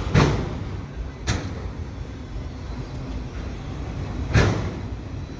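Freight cars rolling past with a steady low rumble and three sharp bangs from the wheels on the track: two close together near the start and one about four seconds in.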